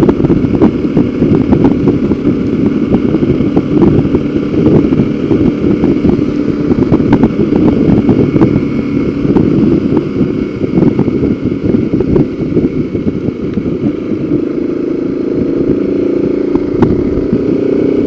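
Motorcycle running along a road under way, a steady engine note mixed with a heavy rush of wind and road noise; the engine tone stands out more clearly near the end.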